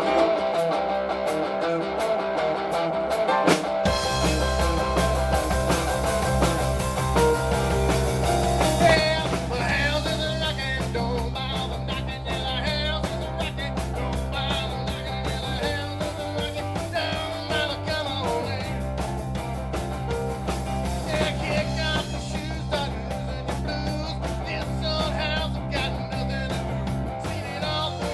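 Live rock band playing a song: a guitar-led opening, with bass and drums coming in about four seconds in, and a wavering lead line, like a voice or lead instrument, from about nine seconds.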